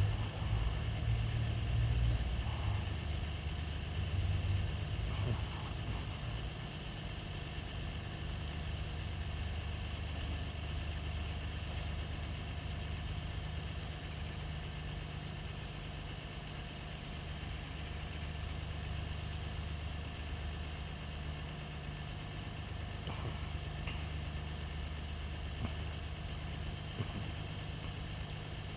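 Diesel locomotive engine running at low throttle, a steady low drone that is louder for the first few seconds and then settles to an even idle.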